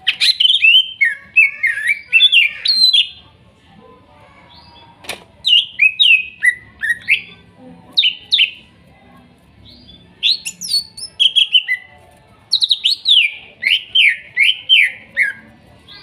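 Cucak ijo (green leafbird) singing in four phrases of fast, sweeping chirps and whistles, with short pauses between them.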